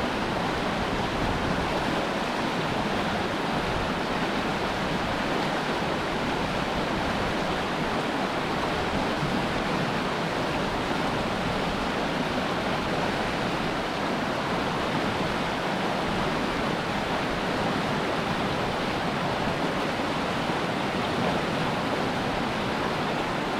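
Steady rush of a fast-flowing mountain river, a constant even roar of water.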